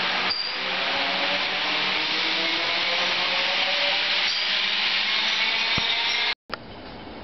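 Comeng electric suburban train moving past along the platform: a loud, steady rush of wheel and air noise with a faint motor whine rising in pitch. The sound cuts off abruptly near the end.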